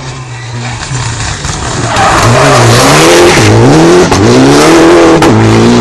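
Rally car engine coming close and getting loud about two seconds in. Its pitch drops and climbs several times as the driver lifts off and revs again through a hairpin, with a sharp crack a little before the end.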